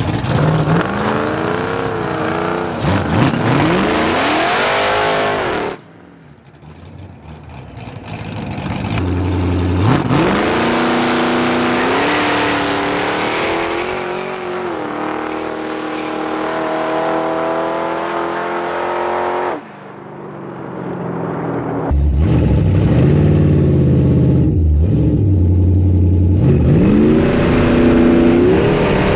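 Street-racing cars' engines revving and accelerating hard, the pitch climbing through the gears. The sound cuts off suddenly twice, and near the end an engine revs in place before climbing again.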